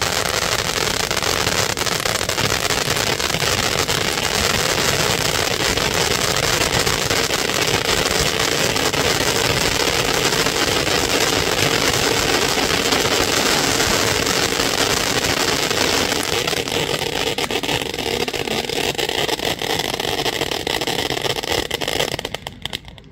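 Röder Feuerwerk 'Drachenfeuer' ground fountain firework burning: a steady, loud rushing hiss with fine crackle throughout. It stops suddenly near the end as the fountain burns out.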